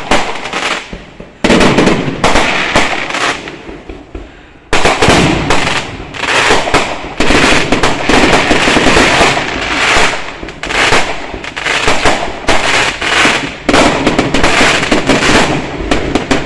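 Fireworks going off: a few separate sharp bangs in the first seconds, then from about five seconds in a rapid, unbroken string of bangs and crackles.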